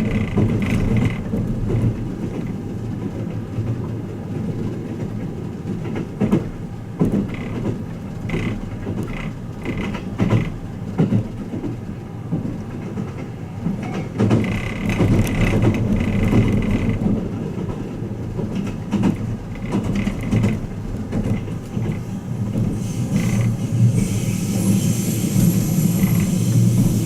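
Passenger car of the Twilight Express Mizukaze running along the line, heard from inside the cabin: a steady low rumble with scattered wheel clicks over the rails. Near the end a higher hiss joins in.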